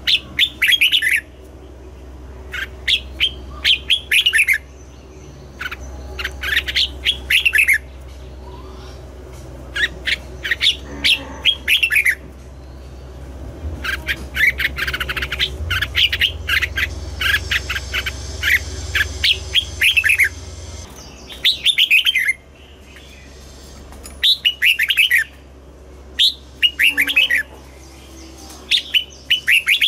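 Red-whiskered bulbul singing: short phrases of quick, clear, sliding whistled notes, repeated every second or two with brief pauses between them.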